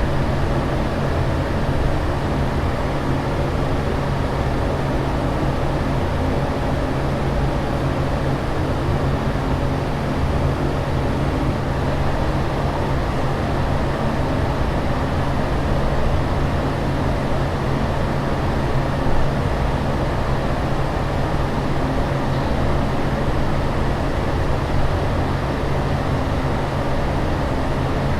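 Airplane cabin ambience: a constant rushing drone, heavy in the bass, with a steady low hum under it and no change throughout.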